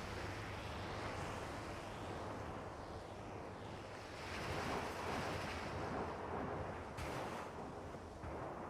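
Analog drone synth holding a steady low drone under a wash of noise that swells to its loudest about halfway through and then ebbs away.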